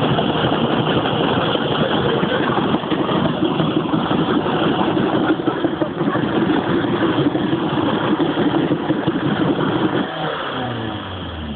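Renault 19 turbo diesel engine held at high revs during a burnout, with a steady roar of engine and spinning tyres. About ten seconds in the revs fall away and the engine winds down as it dies, which the onlookers take for an engine seized solid.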